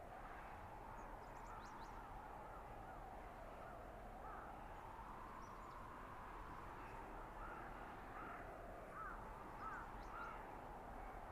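Blizzard ambience in a winter forest: steady wind noise with a howling tone that slowly rises and falls, and a run of short bird calls in the second half.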